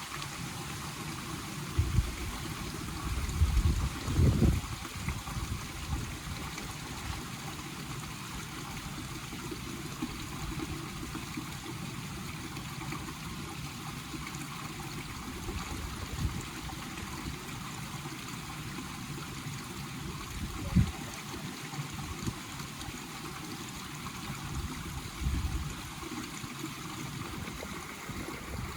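Forest stream flowing, a steady rushing and trickling of water, with a few brief low thumps, mostly in the first few seconds.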